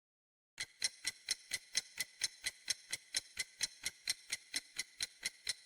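Clock ticking sound effect, a steady run of sharp ticks about four or five a second, starting about half a second in after dead silence.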